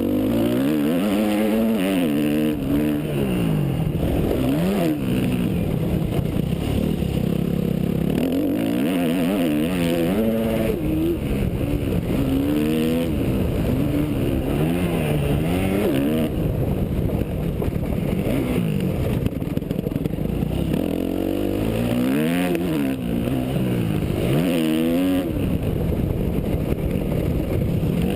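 Yamaha YZ250F four-stroke single-cylinder motocross bike engine, its pitch rising and dropping over and over as the throttle is opened and closed and gears are changed, over a steady rush of noise.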